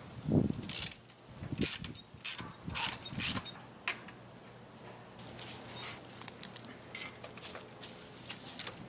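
A run of sharp clicks, knocks and rattles from hand work on fencing and a gate, busiest in the first few seconds, then a few lighter ticks.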